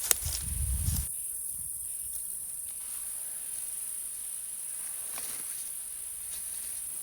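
Insects chirring in a steady, high, continuous trill, with a low rumble during the first second.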